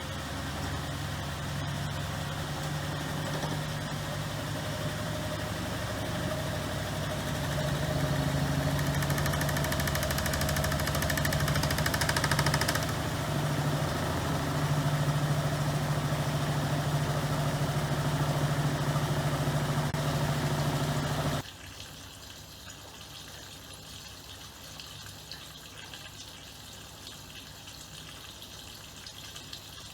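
Miele PW6065 Plus commercial washing machine running mid-programme: a steady motor hum that grows louder about eight seconds in, then cuts off abruptly about two-thirds of the way through, leaving a much quieter background.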